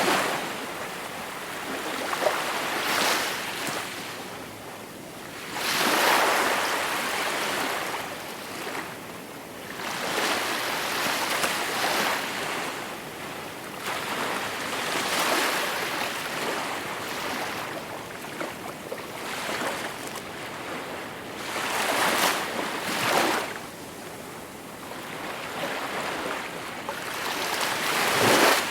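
Gentle sea waves breaking and washing onto the shore, the surf noise swelling and falling back every few seconds, with the biggest waves about six seconds in and again a little past twenty seconds.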